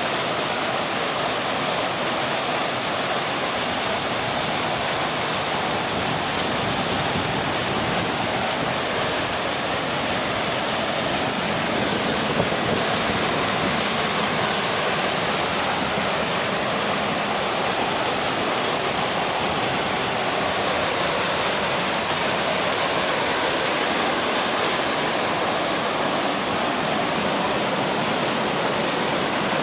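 Steady rushing of mountain water, an even noise with no breaks or changes.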